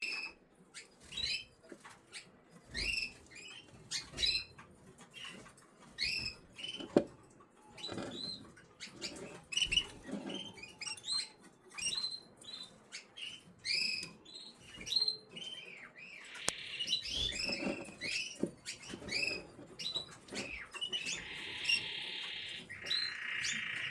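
Eleven-day-old canary chicks cheeping: short, high chirps repeated about once a second, with light rustling and one sharp knock about seven seconds in. A steadier high buzz comes in twice in the second half.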